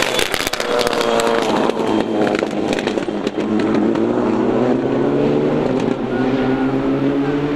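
Rally car engine running hard under load. Sharp cracks and pops come in about the first second, then the engine pitch climbs steadily from about three seconds in, with a brief dip near six seconds before it rises again.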